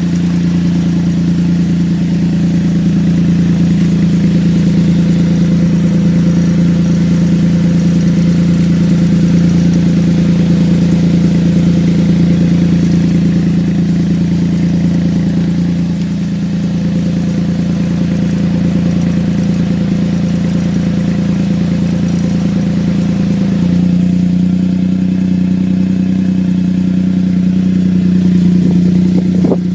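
Suzuki Wagon R MC22S's 660 cc three-cylinder engine idling steadily through a Kakimoto Kai Hyper GTbox aftermarket muffler, a loud even exhaust drone. About 24 seconds in, the idle pitch steps up slightly and then holds.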